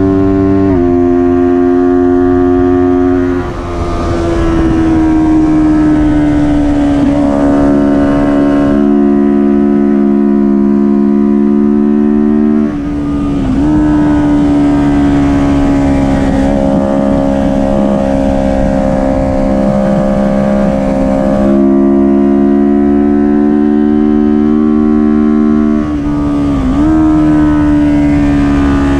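Kawasaki Ninja 400's parallel-twin engine at racing revs, loud and held at a steady pitch for several seconds at a time, the pitch jumping or dipping about five times as gears are changed.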